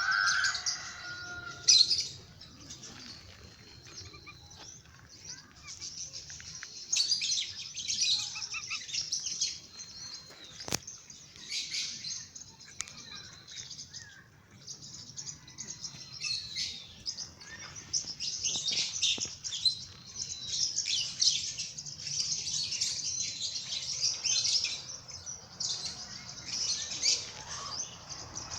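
Many small birds chirping and twittering at once, a dense, continuous high-pitched chatter, with one louder, lower call right at the start.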